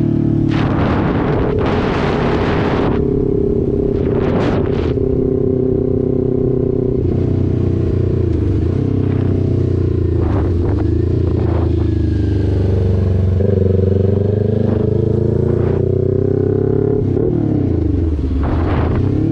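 Motorcycle engine running under way, its pitch dipping and climbing again several times as the throttle is rolled off and on and gears change. Bursts of rushing wind noise come in the first few seconds.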